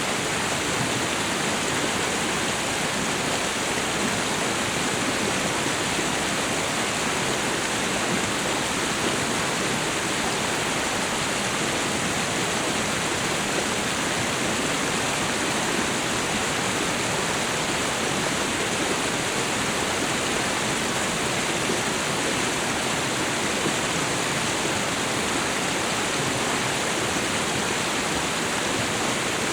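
Waterfall and river rushing: a steady, unbroken roar of falling and running water.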